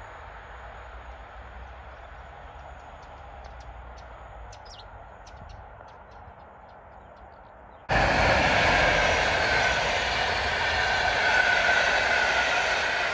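Quiet trackside rumble with a few bird chirps, then, after an abrupt cut about eight seconds in, a train passing loud and close: wheels running on the rails with a steady high whine.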